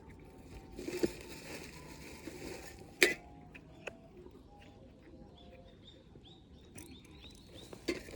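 Small birds chirping, with a quick run of short chirps in the last few seconds. Over this, rustling, and a sharp click about three seconds in and another near the end.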